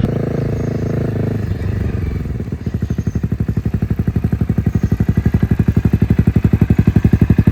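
Honda CBR250 motorcycle engine running steadily at low speed, then dropping back to idle about two seconds in, where it settles into a rapid, even putter.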